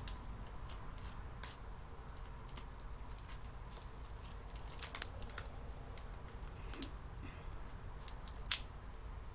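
Light scattered clicks and taps of metal storage-cart parts, bolts and brackets being handled during assembly, with one sharper click about five seconds in and another near the end.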